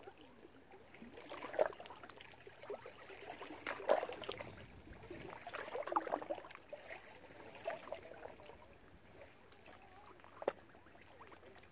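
Water at a lake's edge, lapping and trickling, with a few irregular small splashes.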